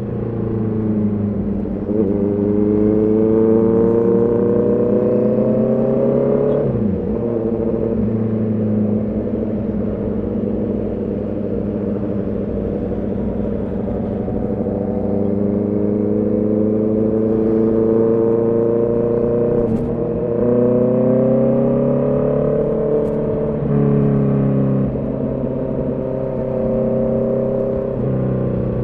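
Honda CB650R's inline-four engine pulling under throttle while riding. The pitch climbs steadily, drops sharply about seven seconds in, then rises slowly again with a few quick dips and steps near the end.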